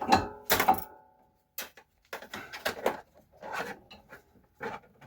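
A guitar-backed snatch of music ends under a second in. It is followed by a series of soft, irregular knocks and clunks of brake parts being handled on the car.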